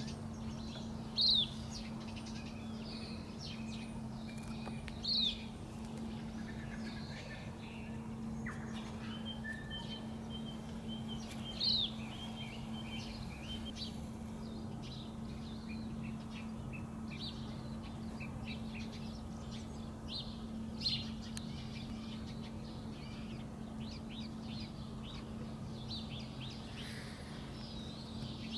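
Wild birdsong: several birds chirping and calling high and thin, with four louder short calls spaced several seconds apart. A steady low hum runs underneath.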